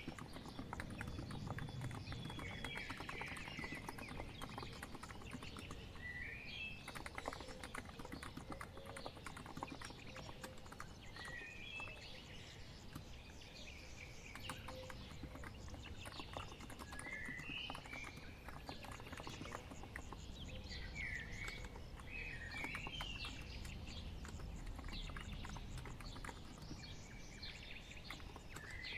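Continuous typing on a COX Empress Living Coral Edition electro-capacitive keyboard: a dense, steady patter of soft keystrokes. Birds chirp behind it every few seconds.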